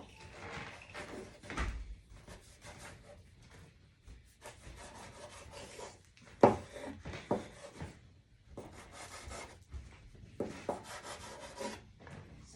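Pizza cutter rolling and scraping through floured dough on the work surface: a series of about six rasping strokes, with a sharp knock about six and a half seconds in.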